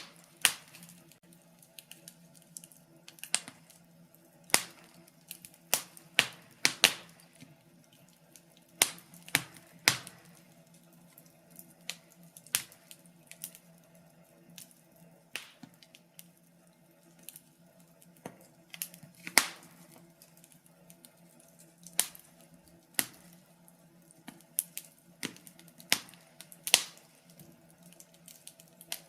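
Wood fire crackling: irregular sharp pops and snaps, a few a second with now and then a louder one, over a faint steady low hum.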